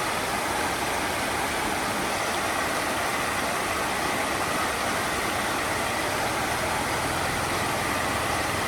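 Steady, even rushing noise at a constant level, without breaks.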